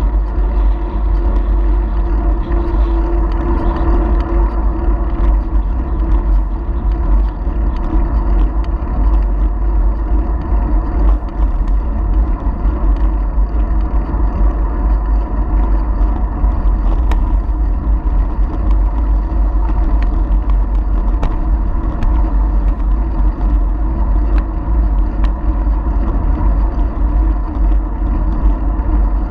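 Wind buffeting a GoPro Hero4 Silver's microphone while cycling: a loud, steady rumble, with faint small clicks scattered through.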